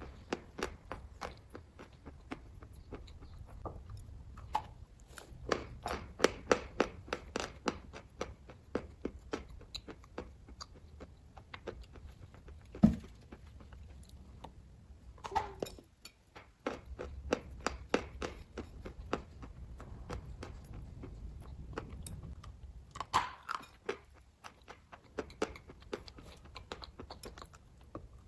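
Someone chewing kaju katli (cashew fudge), close to the microphone: a run of many short mouth clicks and smacks, with one louder single knock about halfway through.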